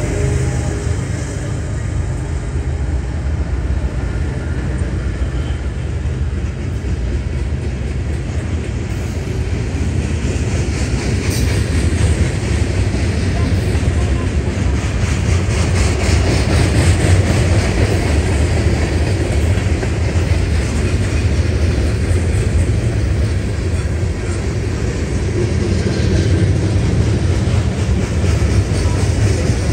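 A train rolling past on the track: a steady, loud rumble of rail cars that keeps on without a break.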